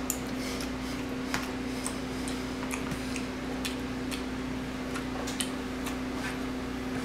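Person chewing food, a scatter of irregular soft clicks and mouth sounds, over a steady low electrical hum.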